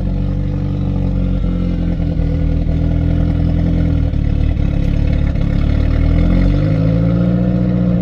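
Pickup truck engine running steadily, its pitch rising about six and a half seconds in as it revs up and then holding at the higher speed.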